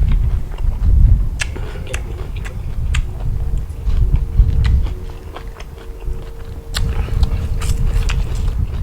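A person chewing a big mouthful of corn som tam and seafood close to the microphone, with irregular crunches and wet clicks.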